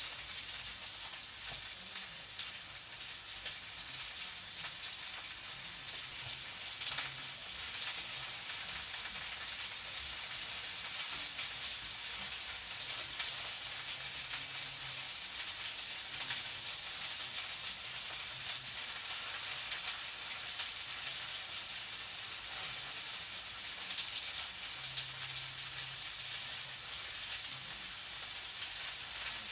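Food frying in a pan, a steady crackling sizzle.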